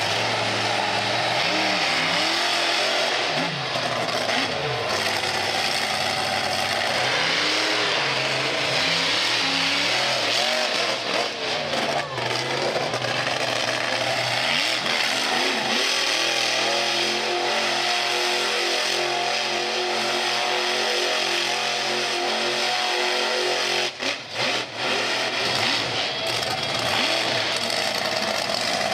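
Monster truck engine revving up and down repeatedly, then running more steadily at a held pitch from about halfway through, over a loud haze of exhaust noise.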